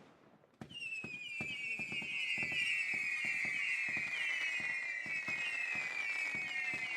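Fireworks whistles: after a brief hush, a pop about half a second in sets off a swarm of overlapping high whistles, each falling slightly in pitch, with scattered pops and crackles beneath them.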